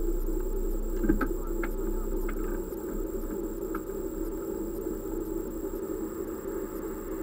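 Car engine idling steadily. There is a single knock about a second in, then a few faint clicks over the next few seconds.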